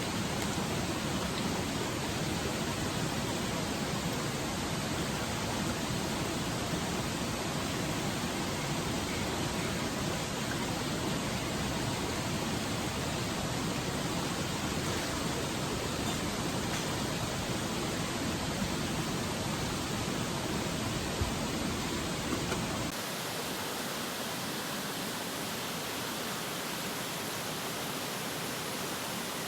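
Steady rushing noise, like running water or rain, with no voices. About two-thirds of the way through it changes suddenly and loses its low rumble.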